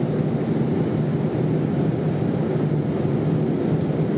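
Steady cabin noise inside a Boeing 787-8 airliner: an even rumble with a low, steady hum underneath, unchanging throughout.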